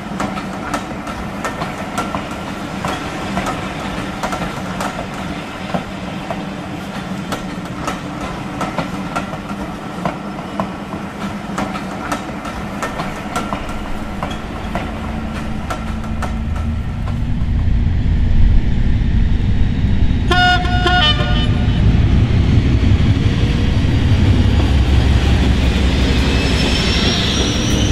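Freight train running, with a steady clickety-clack of wheels over rail joints. From about two-thirds in, a deeper diesel locomotive rumble grows louder. A brief horn sounds about twenty seconds in, and a high rising whine comes near the end.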